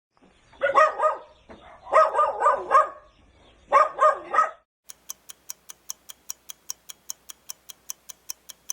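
A dog barking in three short runs of barks, followed by a clock ticking steadily at about four ticks a second.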